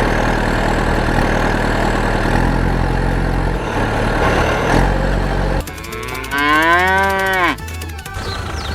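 A steady noisy rumble, then about six seconds in a single drawn-out cow moo, rising and then falling in pitch over about a second.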